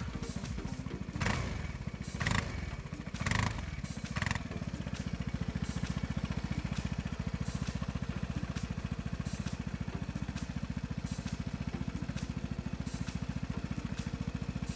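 Vespa GTS 300's single-cylinder four-stroke engine running through a new Akrapovic Euro 4 exhaust. It is given four short throttle blips in the first few seconds, then settles back to a steady idle.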